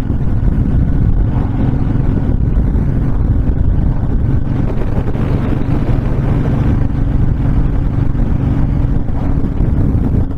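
Honda VTX1300 cruiser's V-twin engine running steadily at cruising speed, with wind buffeting the microphone.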